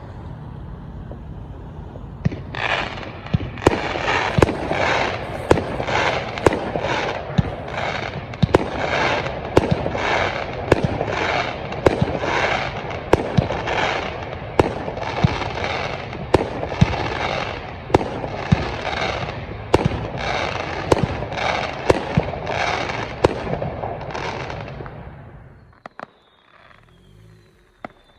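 A firework barrage: sharp bangs about once a second with crackling between, going on for over twenty seconds and then stopping, leaving only a few scattered pops.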